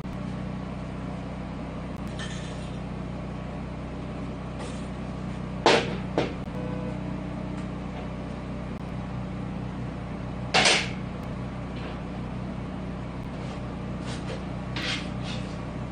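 Steel parts being handled during assembly, knocking sharply twice (about six and eleven seconds in), with a few lighter knocks, over a steady low machine hum.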